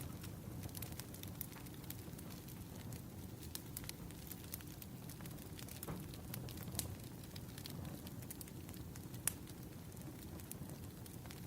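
Firewood burning: a steady low rumble of flames with scattered sharp crackles and pops, one louder pop about nine seconds in.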